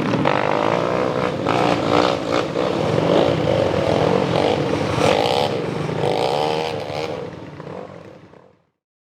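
Motocross bike engines revving hard, their pitch rising and falling with the throttle, before the sound fades out to silence near the end.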